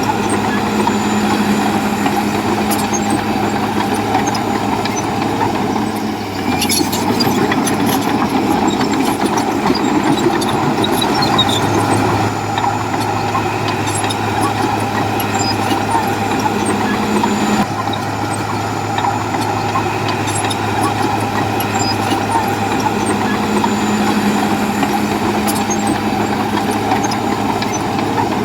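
Heavy diesel engine of a bulldozer running steadily under work, its note shifting abruptly twice.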